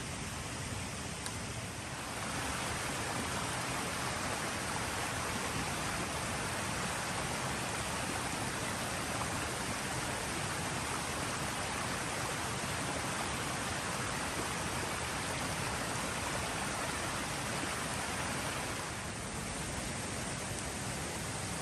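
A forest creek running with a steady rushing sound, a little louder through most of the stretch than at the start and near the end.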